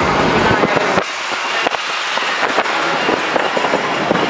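Road and wind noise of a car in motion, with many sharp clicks scattered through it; the deep rumble drops suddenly about a second in.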